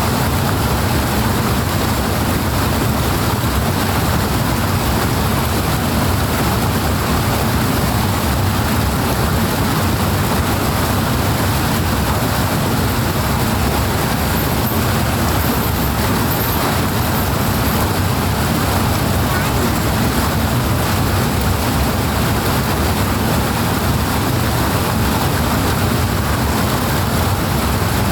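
Loud, steady rush of flowing water, an even noise with no breaks or changes.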